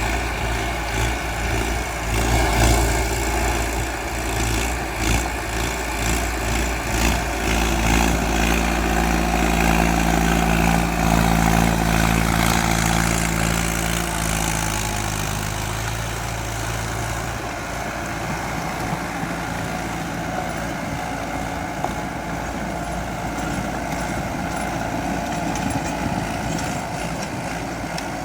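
Mahindra Arjun 605 DI tractor's diesel engine running steadily under work. Its engine note is loudest around the middle and fades into a flatter, noisier drone after about sixteen seconds.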